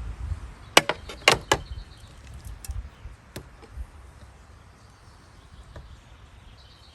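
Three sharp knocks within about a second, starting near the one-second mark, then a few fainter clicks, then quiet.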